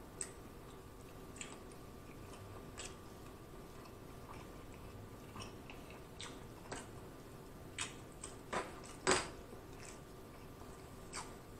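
Close-up chewing of a mouthful of shrimp and chicken gumbo, with scattered wet mouth clicks and smacks. The loudest is a cluster about nine seconds in.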